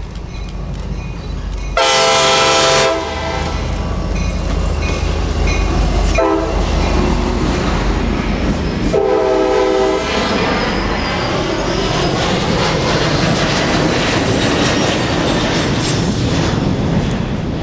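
Tri-Rail commuter train's diesel locomotive sounding its multi-note horn as it approaches and passes: a loud long blast about two seconds in, a short one around six seconds and another longer one near nine seconds. After that come the bi-level passenger coaches rolling past, with steady wheel-on-rail noise.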